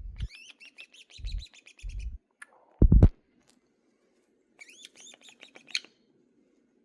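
Pet parrot chirping in quick runs of short rising tweets, twice: through the first two seconds and again around five seconds in. Low thumps come in between, the loudest about three seconds in.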